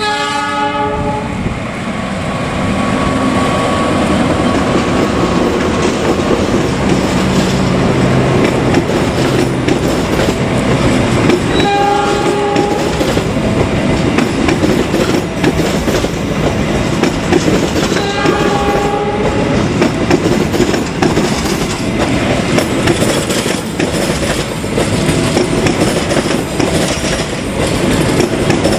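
Diesel-electric locomotive hauling a passenger train past: a short horn blast as it comes in and two more about twelve and eighteen seconds in, with the locomotive's engine running as it nears, then the steady rumble and clickety-clack of the coaches' wheels on the rails.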